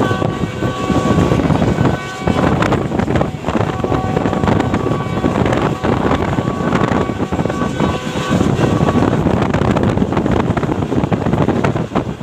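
Passenger train running at speed, a steady rumble of wheels on track with wind buffeting the microphone. A faint steady whine appears during the first two seconds and again in the middle.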